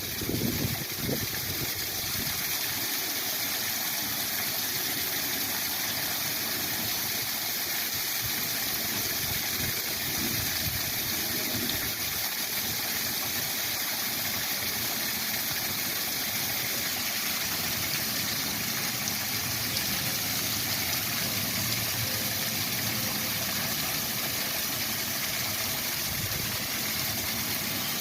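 Waterfall rushing steadily: a constant even wash of falling water.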